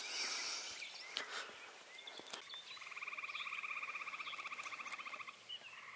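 A frog trilling: one rapid pulsed trill lasting about two and a half seconds starting near the middle, and another beginning near the end.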